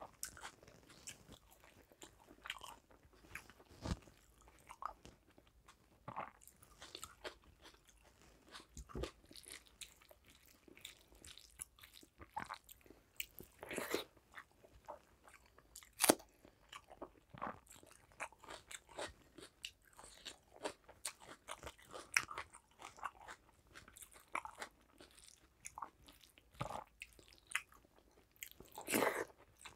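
Close-miked eating: irregular chewing and crunching of a mouthful of rice, dal and fried vegetables, eaten by hand, with a louder sharp crunch a little past halfway.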